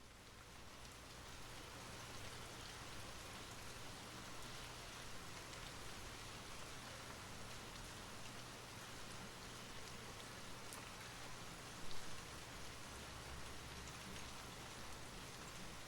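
Steady rain falling, with scattered individual drops ticking on a surface; it fades in over the first couple of seconds. One louder single knock stands out about twelve seconds in.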